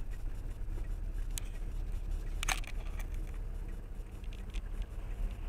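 Low, steady rumble of a car on the move as picked up by a dashcam, with a few faint clicks.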